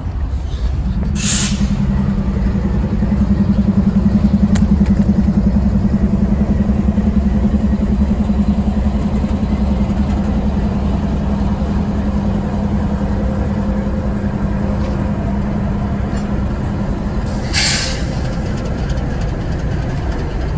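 Railroad train running with a steady low rumble and a low droning tone, broken by two short hisses of released air, one about a second in and one near the end.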